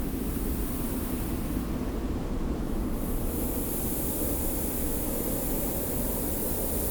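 Steady desert wind: a low rumble with a high hiss of blowing sand. The hiss thins out for about a second, then comes back stronger about three seconds in.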